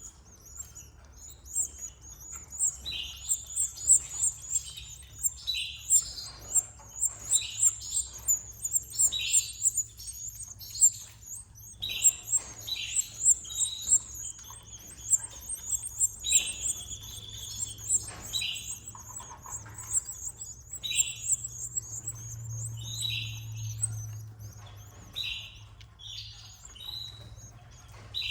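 Canaries chirping: a constant high-pitched twittering overlaid with short, repeated chirps, about one or two a second, over a faint low steady hum.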